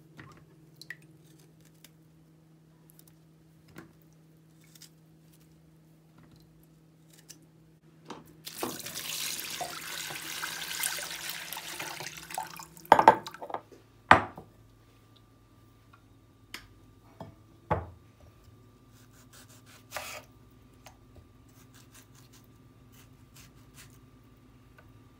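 Kitchen tap running for about four seconds, then a few sharp knocks of things being handled and set down, over a faint low hum.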